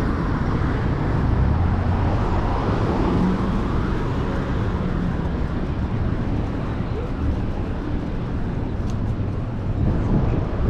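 Steady rumble of city road traffic, with wind rushing past the microphone of a moving bicycle.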